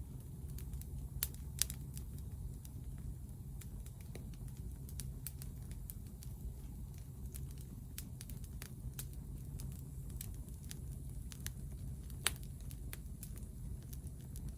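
Wood fire burning, with irregular sharp crackles and a few louder pops over a low, steady rumble.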